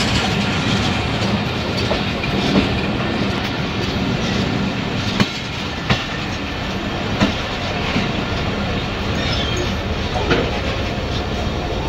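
Passenger train noise: a steady rumble with a few sharp clicks scattered through it.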